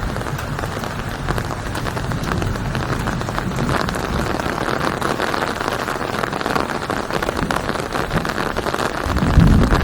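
Steady heavy rain pattering densely on a surface. About nine seconds in, a deep rumble of thunder rolls in and becomes the loudest sound.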